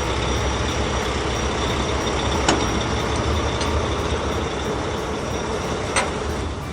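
Heavy vehicle engine running steadily, with a short click about two and a half seconds in and another near the end.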